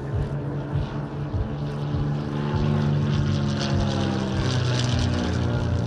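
Piston-engined light propeller aircraft flying a display, its engine and propeller drone steady in pitch and getting louder about two seconds in.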